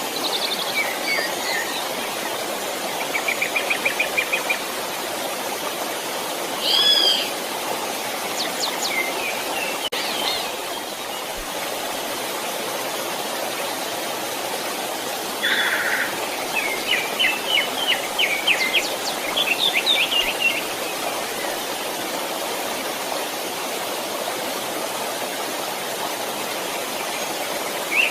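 Steady rushing of a stream, with small birds calling over it: a rapid trill about three seconds in, a few scattered calls around seven to ten seconds, and a run of quick chirps from about sixteen to twenty seconds.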